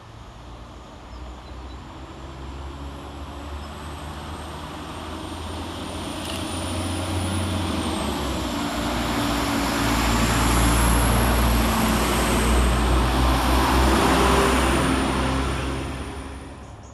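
Diesel multiple unit's underfloor engine running as the train moves through the platform. It grows steadily louder to a peak, its engine note stepping in pitch, then fades near the end.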